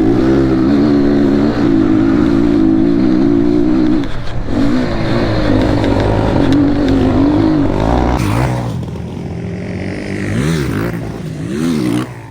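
Dirt bike engine running hard at a steady high note for the first few seconds, then revving up and down with its pitch rising and falling repeatedly in the second half, getting quieter before cutting off near the end.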